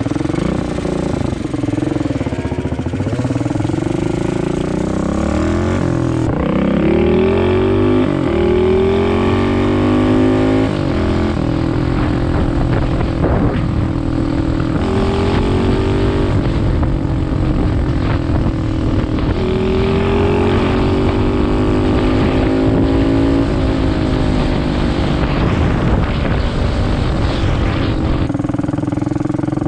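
Small motorbike engine running hard under load, its pitch climbing and then dropping again several times as it accelerates and shifts gears.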